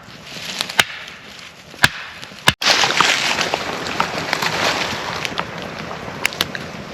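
Three sharp wooden knocks in the first couple of seconds, then a burning wood campfire crackling and hissing, with scattered small snaps and pops.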